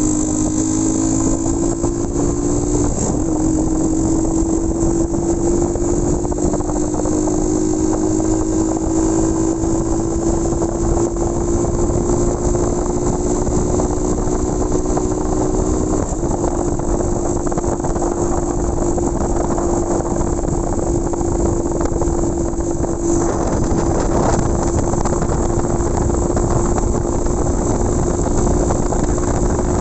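Motorcycle engine running steadily while riding, with road and wind noise. Its pitch climbs slowly and shifts abruptly about three seconds in and again about sixteen seconds in.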